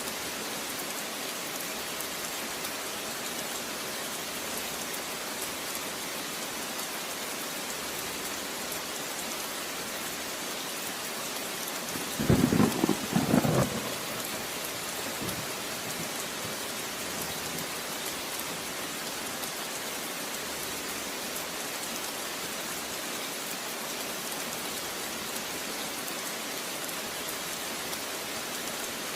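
Steady rain hissing, with a short burst of thunder about twelve seconds in that lasts under two seconds and is the loudest thing heard.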